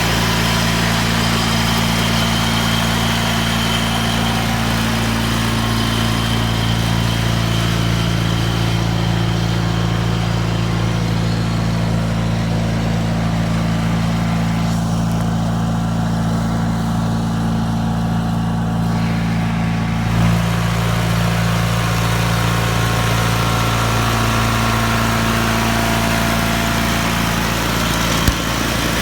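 Engine of a 1979 Wheel Horse garden tractor running steadily while throwing snow, with a brief knock about twenty seconds in.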